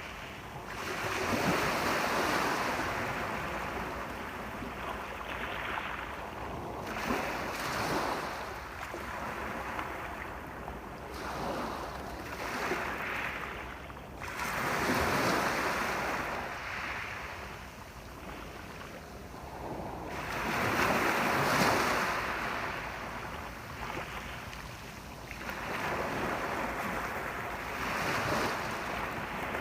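Sea waves breaking on a shore, each one swelling into a rushing wash and then ebbing, with a new surge every several seconds.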